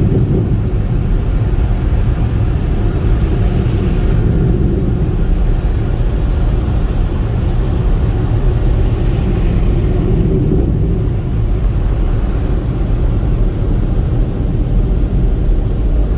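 Automatic car wash's air dryer blowers blowing on the car: a loud, steady rush of air, heaviest in the low end.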